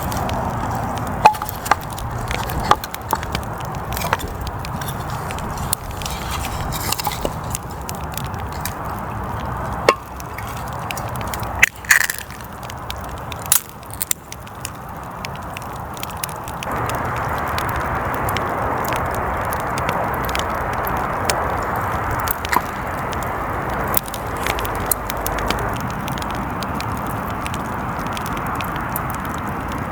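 Wood fire crackling, with scattered sharp pops and cracks over a steady hiss that grows louder about halfway through.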